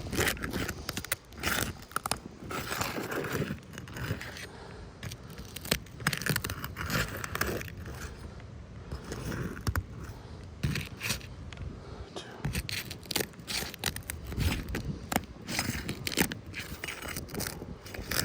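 Roof shingles being worked loose with a pry tool and hammer: irregular scraping with many sharp clicks, crackles and knocks.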